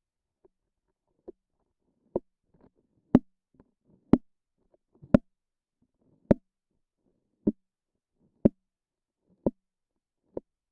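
Close-miked sticky pops: a tacky surface being pressed and peeled away, giving a sharp pop roughly once a second with faint crackling in between. The pops are loudest a few seconds in and then a little softer.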